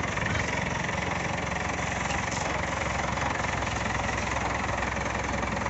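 Heavy vehicle's engine idling steadily, an even low running sound with no change in speed.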